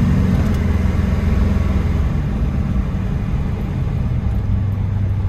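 Blueprint 400 small-block V8 of a 1979 Chevy K10 running steadily through its Dynomax and Vibrant exhaust, a low rumble that eases off slightly about two seconds in.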